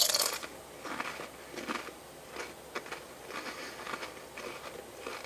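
A person biting into a Pringles potato crisp: one loud crisp crunch at the start, then quieter chewing crunches with the mouth.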